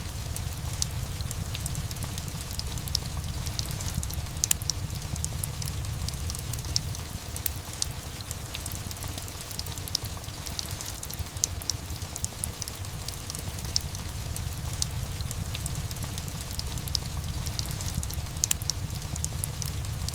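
Steady rain with a low rumble underneath, mixed with a wood fire crackling in frequent small, sharp pops.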